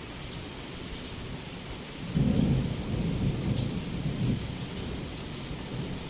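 Heavy rain falling steadily, with a low rumble of thunder that starts suddenly about two seconds in and rolls on for about two seconds before fading back under the rain.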